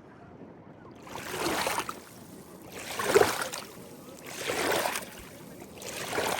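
Water splashing and swishing four times at an even pace, about every second and a half.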